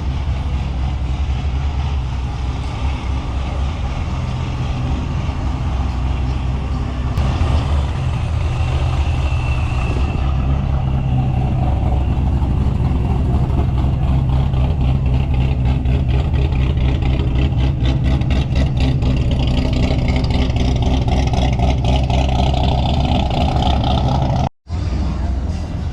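A car engine running with a steady low rumble. The sound cuts out for a moment near the end.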